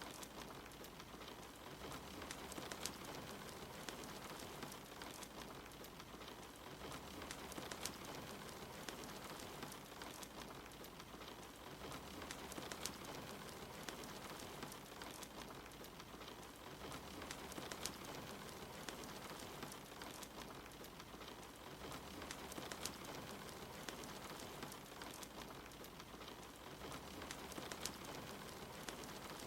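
Steady rain hiss mixed with a wood fire crackling, with scattered sharp pops and snaps.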